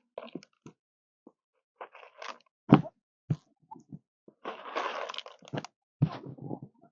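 Irregular crunches and clicks of corn and chicken feed, with a sharp knock and then a rustling burst about halfway through.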